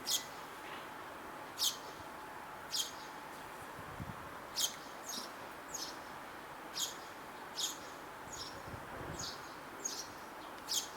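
Sparrow chirping: about a dozen short, high, downward-slurred chirps at irregular intervals, over a steady outdoor background hiss.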